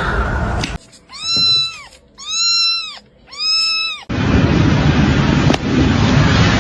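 A cat meowing three times, each meow under a second long, rising then falling in pitch. About four seconds in, a loud, rough, even noise takes over.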